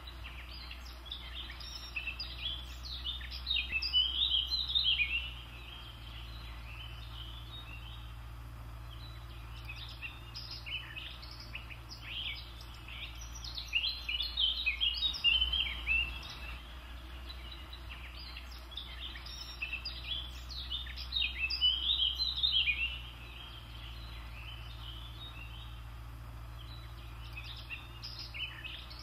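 Songbirds chirping in bursts of quick high notes, each a few seconds long with quieter spells between, over a steady low hum.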